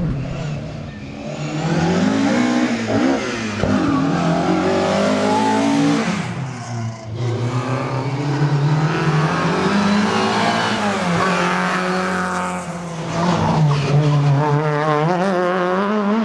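Rally car engine under hard acceleration, revs climbing and dropping again and again through gear changes, with a short lift off the throttle about six seconds in.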